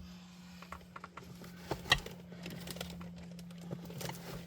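Small hard clicks and light clatter of hand tools and small hose clamps being handled and sorted, with one sharper click about two seconds in, over a steady low hum.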